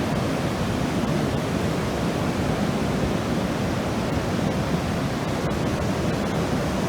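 Steady roar of surf and rushing water, an even wash of noise that does not rise or fall with single waves.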